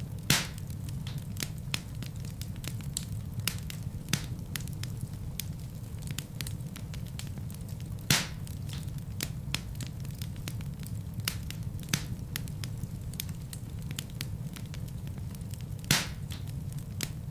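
Wood fire burning in a fireplace: a steady low rumble of flames with frequent small crackles and three louder pops, about a third of a second in, around the middle and near the end.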